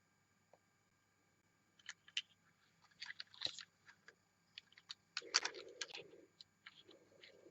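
Handling noise from a die-cast toy bus and its packaging: a run of small clicks, taps and crinkles, starting about two seconds in, with two short scraping rustles in the last few seconds.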